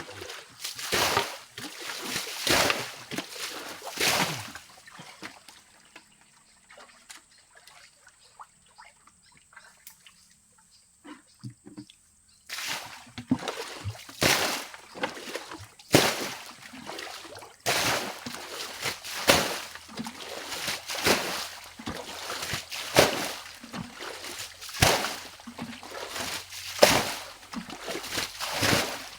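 Water being bailed out by hand, scoop after scoop thrown out with a splash. There are a few throws, a pause of several seconds, then a steady rhythm of about one splash every second and a half.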